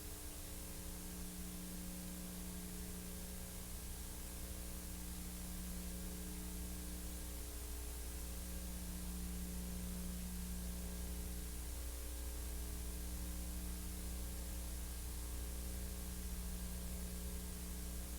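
Steady electrical hum with several fixed low tones under constant hiss, with no other sound: background noise of a silent-film transfer.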